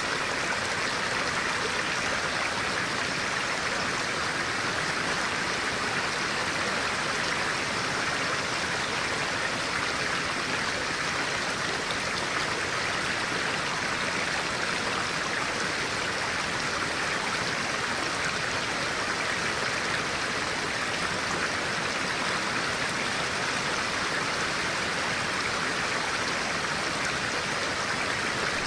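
Clear-water stream flowing steadily, a constant rushing and babbling of water over stones.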